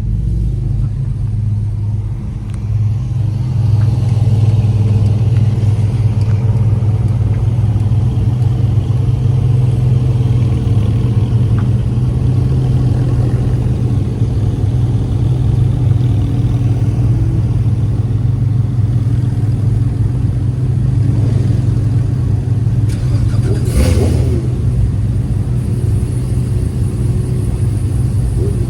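Car engine and road noise while driving: a steady low drone, with a brief louder burst of noise about 24 seconds in.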